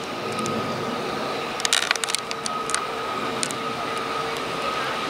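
Train approaching along the platform line: a steady running hum with two held tones, with a quick cluster of sharp clicks about two seconds in.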